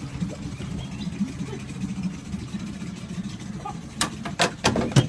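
Boat motor running at a steady low idle, with a few sharp knocks about four seconds in and again near the end.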